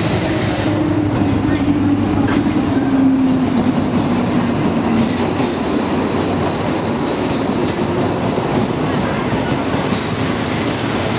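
Train running on the rails, a loud steady rumble with a low note that falls slowly in pitch over the first five seconds.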